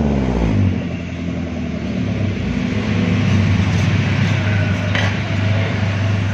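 Toyota Avanza engine idling steadily through a racing exhaust (straight pipe with the stock resonator kept), a rev dying away at the start.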